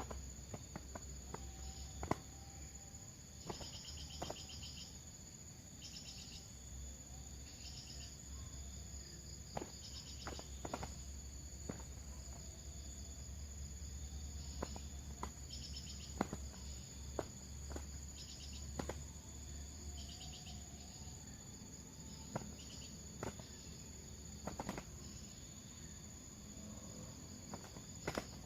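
Steady high-pitched insect drone, with short trilled chirps every second or two and scattered sharp clicks.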